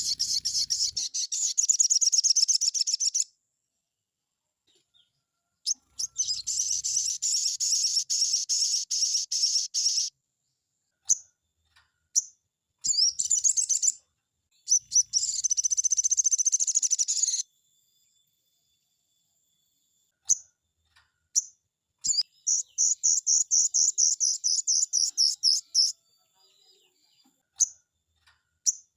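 Crimson sunbird (sogon) singing: loud, high-pitched phrases of rapid repeated notes lasting a few seconds each, broken by short pauses and single chirps.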